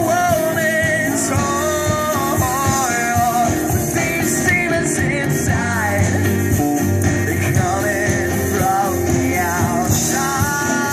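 Live rock band playing, with a singer carrying the melody over the instruments.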